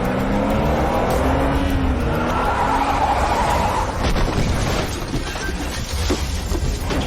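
Car engine revving hard as it accelerates, with tyres squealing. A long tyre squeal comes about two and a half to four seconds in.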